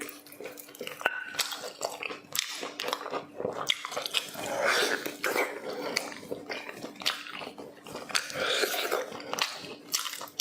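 Close-miked mukbang eating sounds: a person chewing and biting food with a mouth full, giving many irregular wet smacks and sharp clicks.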